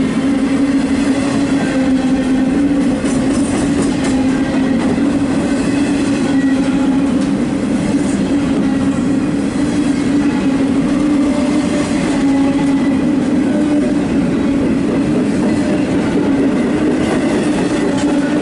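Intermodal stack freight train's well cars rolling past at close range: a loud, steady rumble of steel wheels on rail.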